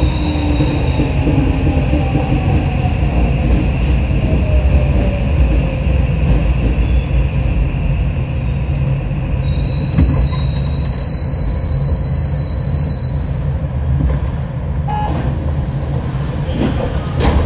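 Running noise of a Hokushin Kyuko 7000-series electric train, a steady heavy rumble with the traction motors' whine falling in pitch over the first several seconds as the train slows. About ten seconds in, a high steady squeal sounds for about three seconds.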